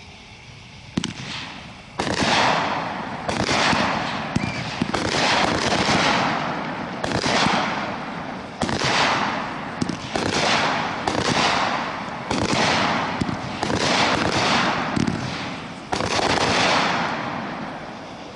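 Shogun Boy O'Boy Blue 200-gram, 16-shot firework cake going off, about one shot a second. Each shot's sharp launch report is followed by the crackle of a strobe burst that fades before the next.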